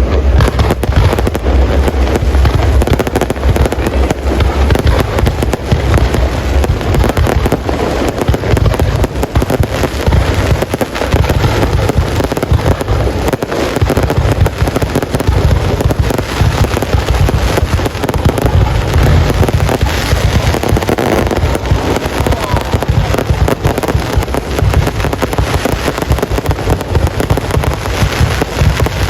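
A fireworks display going off without a break: dense bangs and crackling one after another, with a heavy low rumble underneath.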